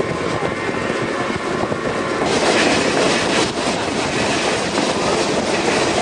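Excursion train rolling along the track, a steady running noise with wheels clacking over the rail joints. Faint steady whining tones over the first two seconds, and the sound opens up a little about two seconds in.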